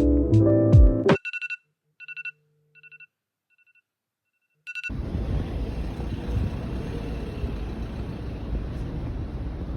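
Background music cuts off about a second in. Short electronic beeps at one pitch follow, repeating in small groups for a few seconds. From about five seconds in, a steady rumbling noise like vehicle or traffic ambience runs on.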